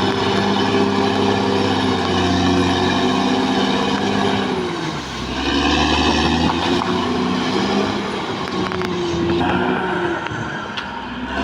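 Caterpillar D6R XL bulldozer's diesel engine running hard under load, its pitch sagging about five seconds in and then picking up again. A higher squeal rides over it for a couple of seconds around the middle.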